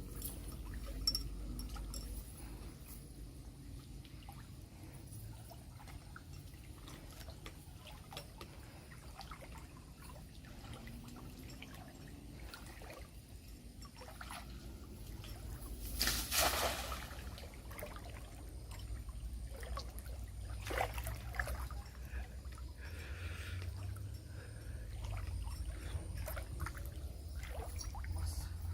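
River water trickling and splashing, with scattered small knocks and a brief louder splash about sixteen seconds in.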